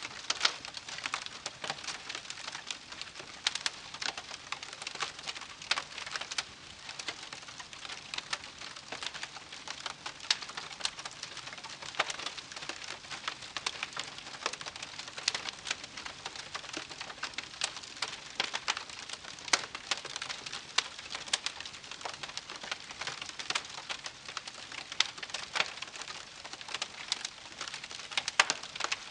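Wood campfire crackling: frequent irregular sharp pops and snaps over a soft steady hiss.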